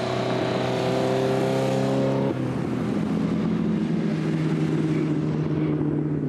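Racing car engine running at high revs, its note rising slightly, then changing abruptly about two seconds in to a lower, steady engine note.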